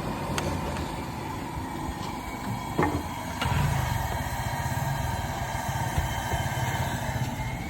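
Steady low engine rumble, growing louder about three and a half seconds in, with a few faint clicks.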